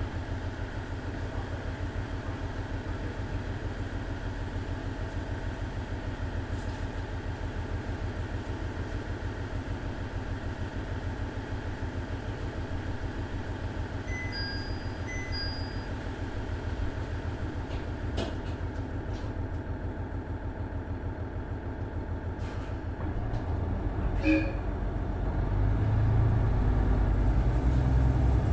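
KiHa 110-series 200 diesel railcar running, heard from inside the car: the steady low rumble of its Cummins DMF14HZA engine mixed with wheel and rail noise. There are a few sharp clicks about two-thirds through, and the low rumble grows louder over the last few seconds.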